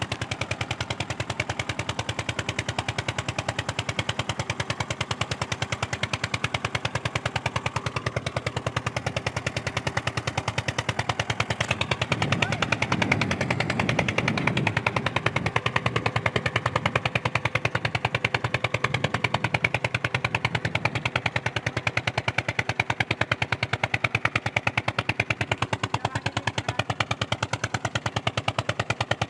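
Eicher 242 tractor's single-cylinder diesel engine running under load, its exhaust beating in rapid, even pulses. It grows louder and deeper for a few seconds about halfway through.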